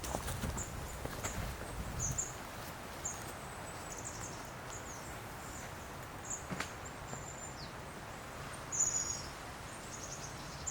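Small birds chirping: short, high calls scattered throughout over a faint, steady forest background, with a low rumble in the first couple of seconds.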